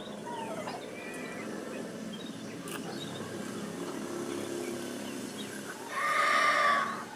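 One loud, drawn-out animal call lasting about a second, near the end, over a low murmur and faint scattered bird chirps.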